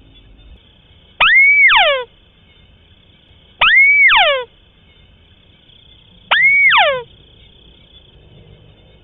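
White-browed crake calling three times, about every two and a half seconds: each call a whistle that rises and falls, followed by a quick run of falling notes.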